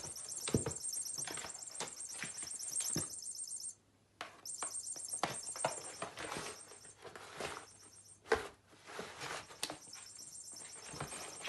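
Squeaking toy mouse giving long runs of rapid, high-pitched chirping squeaks. The runs break off twice, and short knocks and scuffles from an animal playing with it run throughout.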